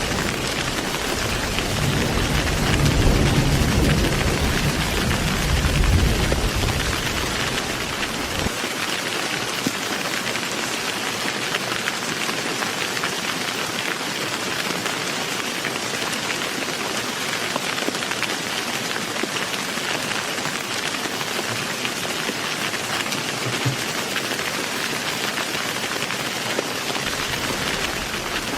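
Heavy rain falling steadily, with a rolling rumble of thunder through the first eight seconds or so that then drops away, leaving the rain alone; a low rumble begins to return near the end.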